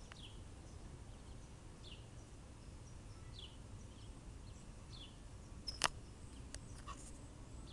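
Faint short falling chirps from a bird, repeated about every second and a half, over a low steady rumble; a single sharp click a little before six seconds in.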